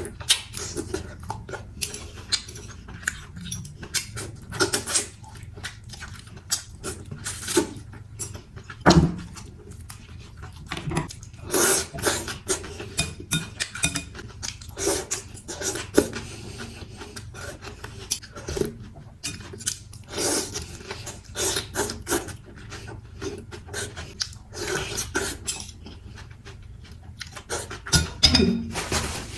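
Eating utensils knocking and clinking against a bowl over and over, in irregular short taps, while a bowl of noodle soup is eaten.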